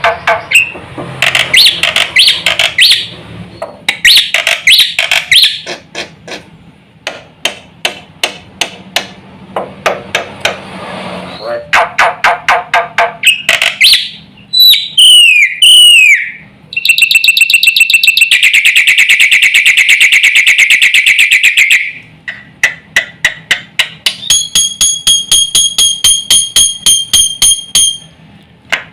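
Black-winged myna (jalak putih) singing a long, varied song packed with other birds' phrases: strings of loud, sharp repeated notes, falling whistled glides, a rapid buzzing trill held for about five seconds in the middle, and a run of high, clear repeated notes near the end.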